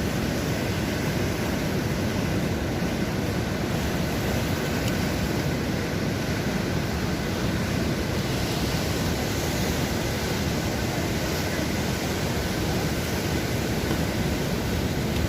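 Sea surf on the shore: a steady rushing noise with no separate breaks standing out.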